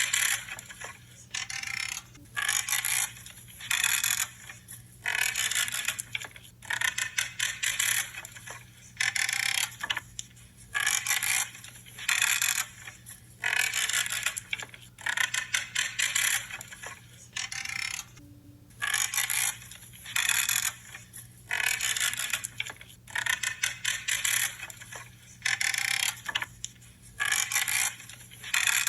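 Pruning blades cutting through branches again and again, each cut a short creaking, crunching snip, about one every second or so, over a faint steady low hum.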